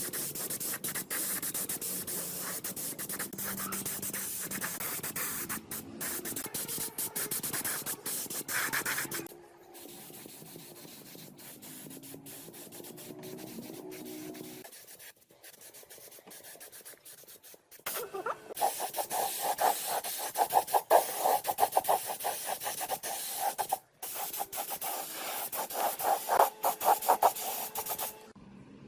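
Scratchy rubbing and scraping on rusty metal parts, in several stretches: a long scratchy run, a quieter pause, then rapid, loud scraping strokes near the end.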